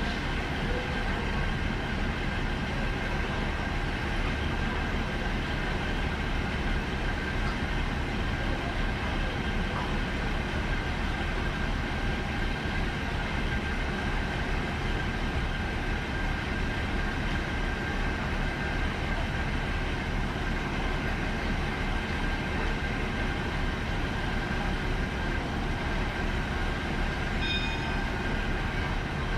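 Diesel passenger train heard from aboard: a steady low rumble with a constant high tone over it, and a few short high tones near the end.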